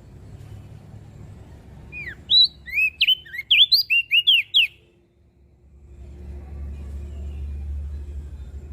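Crested white-eye (opior jambul) singing a quick burst of about a dozen sharp, looping whistled notes lasting a couple of seconds, over a low background rumble that grows louder afterwards.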